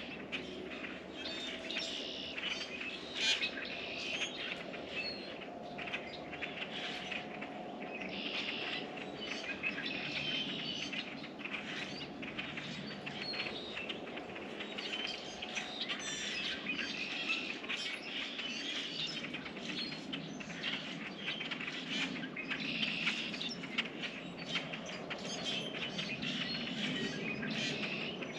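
Small songbirds chirping and twittering continuously at a bird feeder, with many short clicks and taps mixed in.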